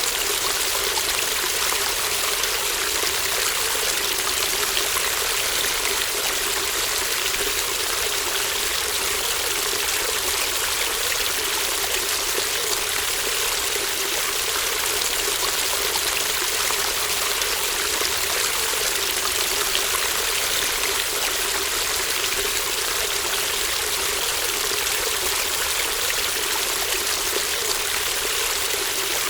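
Babbling brook: a shallow stream of water running steadily, an even, continuous rush that is brightest in its upper range.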